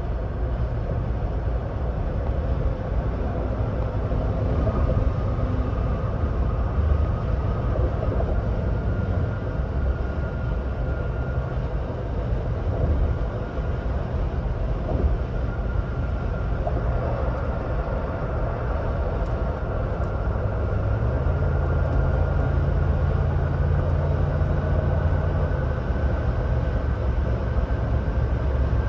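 2026 Ford Bronco Badlands cruising at highway speed: steady road and tyre noise with a low engine drone and a faint high whine. A low hum grows stronger about 21 seconds in and eases off again near 26 seconds.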